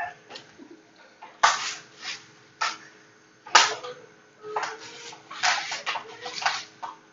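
Eating sounds at a meal eaten with the hands: sharp smacks and clicks, three loud ones about a second apart, then a run of softer ones near the end, over a faint steady hum.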